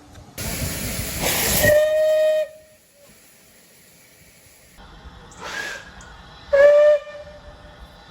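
Steam locomotive whistle blown twice: a rush of escaping steam that settles into a steady single-pitched whistle tone, cut off after about two seconds, then a shorter, louder blast of the same pitch near the end.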